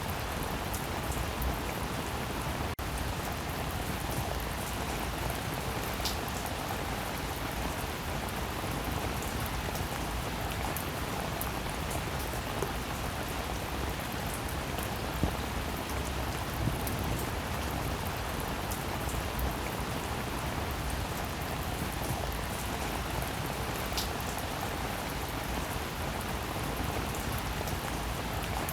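Steady rain falling, with individual drops tapping here and there through the even hiss.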